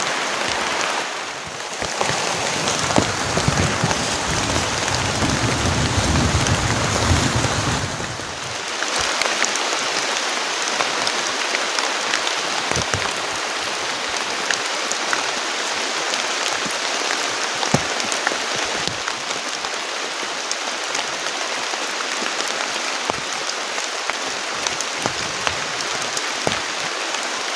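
Heavy tropical rain pouring steadily onto forest foliage, an even hiss full of fine drop taps. A low rumble runs under it for several seconds near the start.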